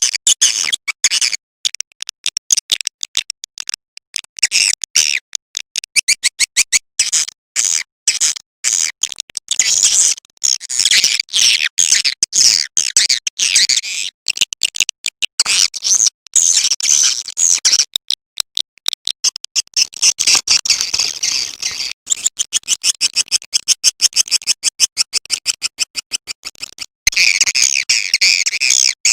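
Swiftlet lure call: a dense, rapid stream of short high chirps and clicking twitters from swiftlets, with a brief break a little before the end.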